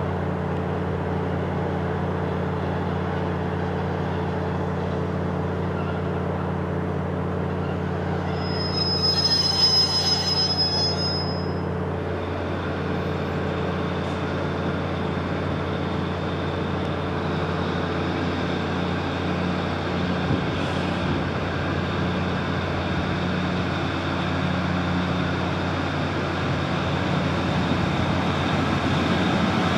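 Diesel multiple unit running with a steady low engine hum. About nine seconds in, a high-pitched squeal lasts some three seconds, and the train grows louder near the end.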